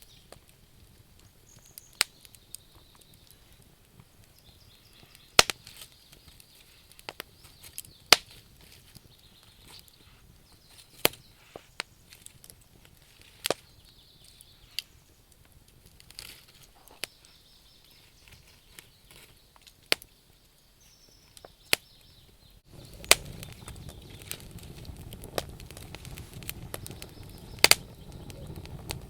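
Campfire crackling: wood popping in sharp, irregular snaps over a faint background. About 23 s in, a steady low rumble of flames comes in under the pops.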